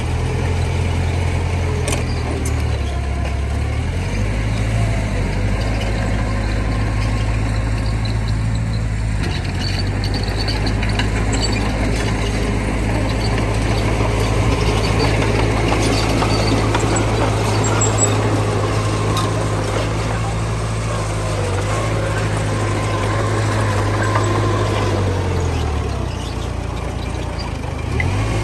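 Heavy diesel engine of earthmoving machinery running steadily, its low note stepping up and down a few times with load, with a few faint clanks.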